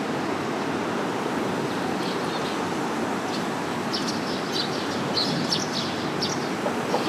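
Small birds chirping in short bursts, mostly in the second half, over a steady rushing background noise.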